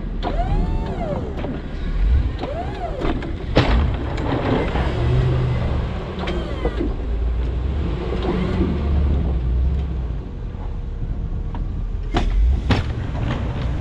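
Truck engine running under snowplowing work, with whining tones that rise and fall early on and a few sharp knocks, the loudest near the end.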